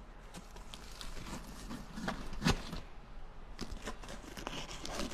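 Close-up sounds of pizza being pulled apart and eaten: irregular crackly crunches and small clicks, with one louder crunch about halfway through.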